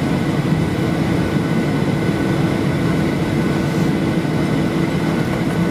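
Steady cabin noise inside a Boeing 737-800 taxiing after landing: a constant hum of the engines at idle and the cabin air, with a few steady tones running through it.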